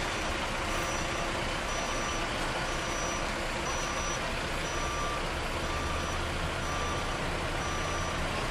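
A truck's reversing alarm beeping about once a second over its running diesel engine. A low engine drone grows louder about two-thirds of the way through.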